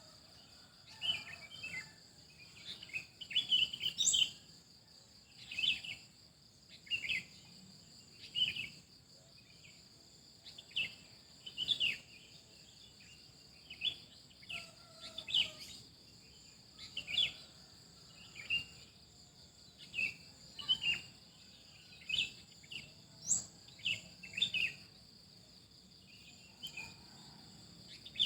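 Birds chirping in short, repeated calls about once a second, over a steady high-pitched drone of insects such as crickets.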